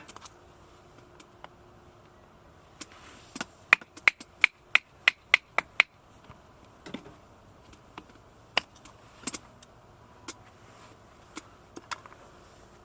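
A run of about seven sharp clicks or snaps, roughly three a second, in the middle, with scattered single clicks before and after.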